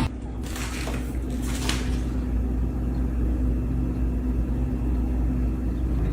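Steady low motor rumble with a constant hum, and a few brief rustles in the first two seconds.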